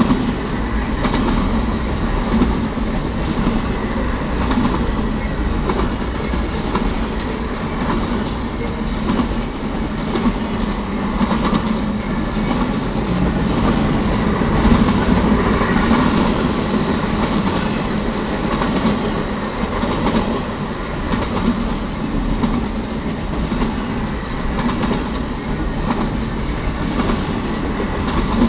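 Cars of a double-stack container train rolling steadily past on the main line: a continuous rumble of steel wheels on rail with clicking from the wheels and joints.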